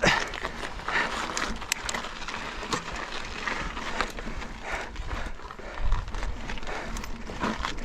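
Mountain bike rolling over slickrock with irregular clatter and knocks from the chain, frame and tyres as it bounces over the rock. Low wind rumble buffets the microphone, strongest about six seconds in.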